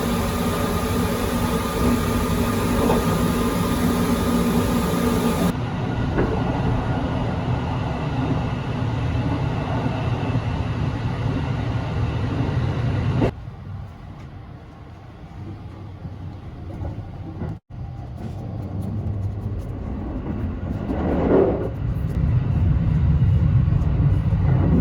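Sunrise Izumo sleeper train running, a steady rumble of the train on the rails. It is heard in several shots cut together, quieter from about halfway through and building up again near the end.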